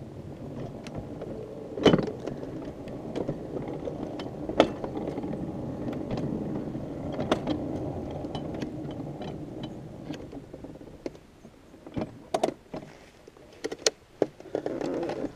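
Wheels of a small car rolling on 7-1/2 inch gauge track: a steady rumble with a sharp click about every two and a half seconds, fading out after about ten seconds, followed by a few scattered metal clicks and knocks.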